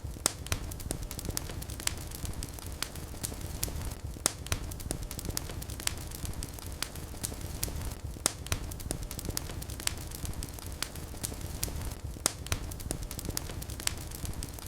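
Fire burning in a fireplace, with frequent sharp crackles and pops at irregular intervals over a steady low rumble of the flames.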